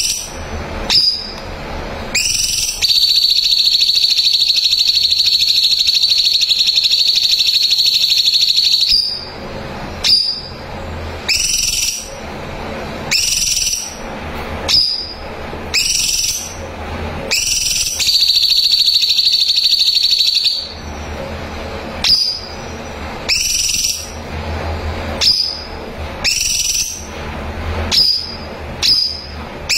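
Cucak cungkok singing: short rising whistled notes repeated about every second and a half, broken twice by a long rapid trill held for several seconds, the first about three seconds in and the second about two-thirds of the way through.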